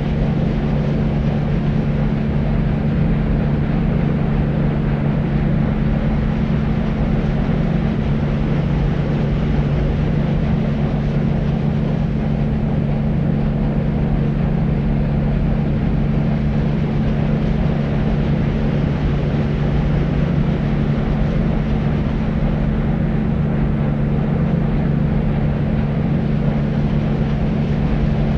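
Deep white noise for sleep: a steady, even low rumbling hiss with a low hum in it and little treble, never changing.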